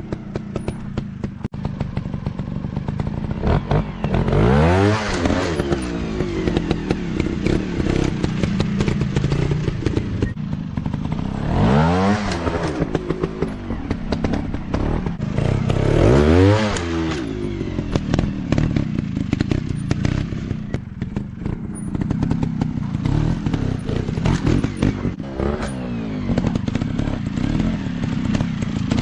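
Off-road dirt bike engines running, revving up hard and dropping back three times over a steady engine drone.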